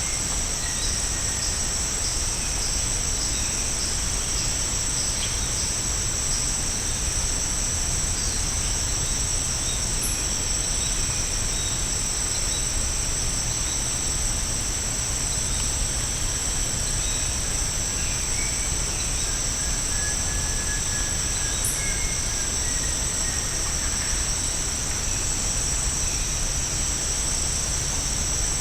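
Steady, high-pitched drone of a tropical insect chorus, with a few faint bird whistles now and then.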